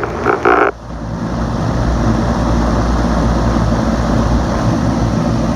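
Homemade box fan driven by an Emerson AC condenser fan motor running, a steady rush of air over a low motor hum. A few short buzzing bursts sound in the first second before it settles into an even run.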